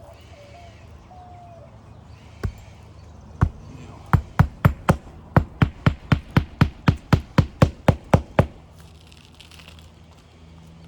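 Palm nailer driving a roofing nail down through asphalt shingles: a couple of single taps, then a rapid, even run of sharp strikes, about four a second, for about five seconds.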